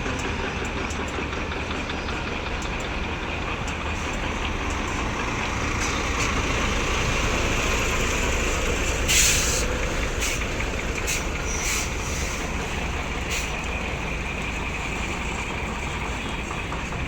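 Heavy truck running on the road, a steady engine rumble with road noise, and a short burst of hiss about nine seconds in.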